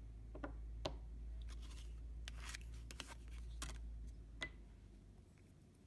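Small clicks and short scrapes from handling nail-stamping tools (polish bottle, metal stamping plate, scraper and stamper), about a dozen scattered light ticks, over a low steady rumble that fades out near the end.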